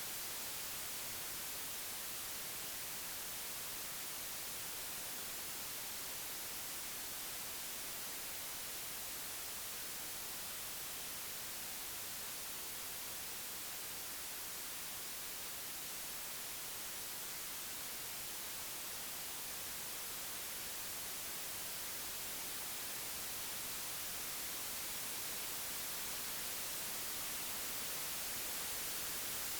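Computer-generated white noise: a steady, even hiss with no tones or events, growing slightly louder near the end.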